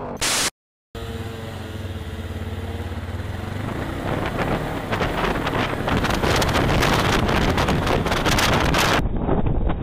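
Motorcycle engine running while riding, heard through a rider-mounted camera, with wind buffeting on the microphone that grows steadily louder as speed builds. It opens with a brief loud burst and a short dead-silent gap.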